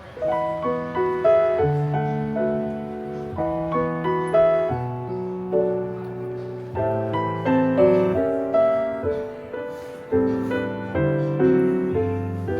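Background music: a solo piano playing a gentle, flowing melody.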